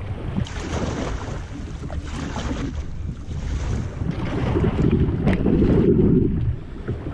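Wind buffeting the microphone of an action camera on a river kayak: a steady low rumble, with a hissing stretch in the first half.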